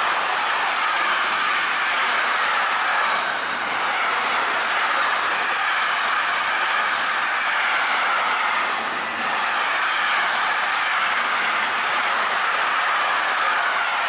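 Train passing on the line, a steady loud rolling noise of wheels on rail with some clickety-clack over the rail joints.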